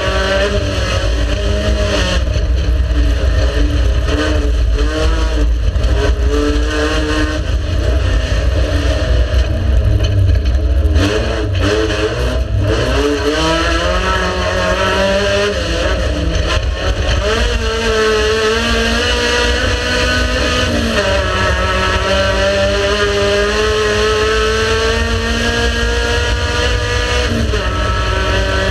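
Race car engine running hard under load, its pitch climbing and then dropping back again and again as it revs through gear changes.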